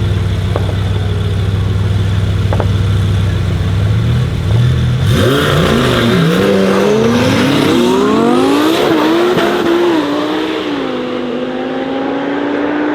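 Twin-turbo Lamborghini Huracan Performante V10 holding a low steady rumble, then launching about five seconds in. Its revs climb and drop back several times as it shifts up through the gears, then the note settles lower and fades a little as the car pulls away down the drag strip.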